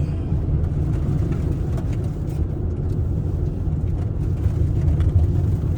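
A car driving along a road: a steady low rumble of engine and tyre noise, with a few faint ticks.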